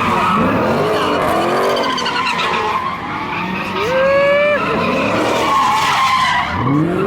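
V8 muscle car engines revving hard while sliding, their pitch climbing and dropping again and again, under the hiss of tyres skidding. About four seconds in, a tyre gives a sharp high squeal that rises and then holds.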